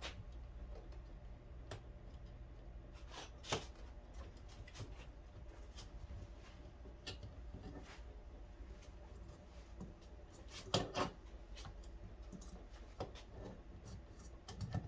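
Quiet handling noises from work on a motorcycle's wiring: scattered small taps and a few sharp clicks, the loudest about three and a half seconds in and twice close together near eleven seconds, over a low steady hum.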